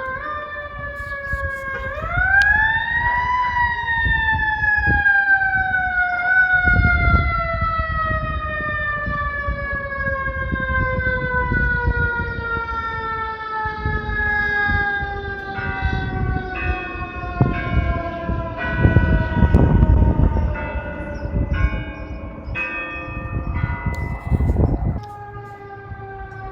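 Fire engine's mechanical siren winding up sharply about two seconds in, then slowly winding down in pitch, with a run of short horn blasts in the second half and a heavy truck engine rumbling underneath.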